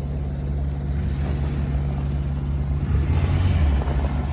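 Polaris Ranger 700 side-by-side's engine running steadily, growing louder about three seconds in.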